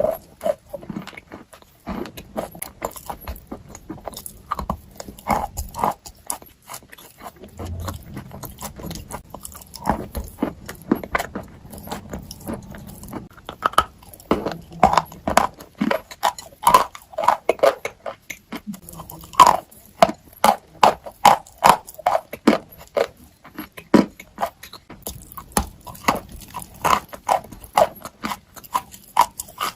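Close-miked crunching and chewing: a long run of short, crisp crunches, irregular at first, then louder and steadier at about two or three a second from around halfway through.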